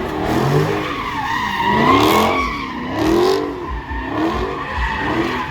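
A car's engine revving up and down again and again while its tyres squeal and skid, as in a slide or burnout.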